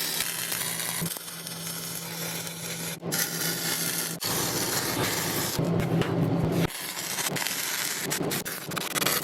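Electric arc welding crackling steadily as weld passes are laid on a steel mount, over the hum of a fume extractor pulling the smoke away. The crackle breaks off briefly and starts again a few times.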